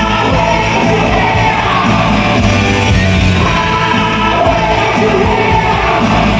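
A solo vocalist singing a song over loud rock-style backing music.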